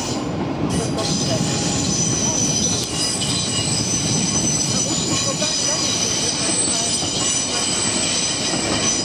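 A long Dutch Railways (NS) double-deck electric train rolling past with a steady rumble of wheels on rail. Several high, steady squealing tones from the wheels ride over the rumble from about a second in.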